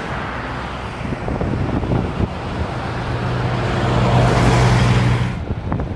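A motor vehicle on the road passing close by, its engine hum and tyre noise building over a couple of seconds, then cutting off suddenly near the end.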